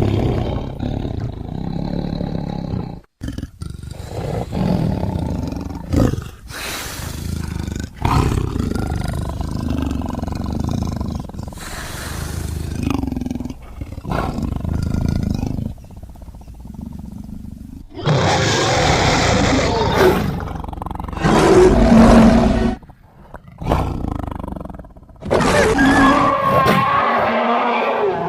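Big-cat roars and growls, tiger-like, layered with monster roars into a creature sound effect for a robotic white tiger. A string of separate roars follows one after another with short breaks, and the loudest come in the second half.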